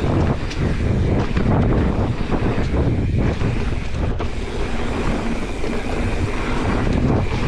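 Wind rushing over the camera microphone as a bike rides at speed down a dirt jump trail, a steady loud rumble.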